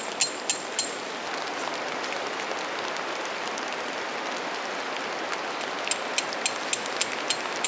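Steady rain falling, an even hiss. Over it, a run of sharp, ringing ticks at about three to four a second sounds in the first second and again from about six seconds in.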